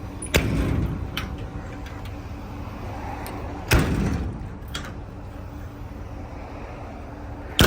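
Metal compartment doors on a steel utility truck body banging shut three times, about three and a half seconds apart, with lighter latch clicks in between.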